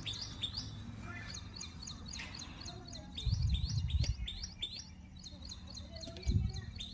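Small birds chirping over and over, a rapid series of short, high, downward-sliding chirps. Two louder low rumbles break in, a longer one about three seconds in and a short one near the end.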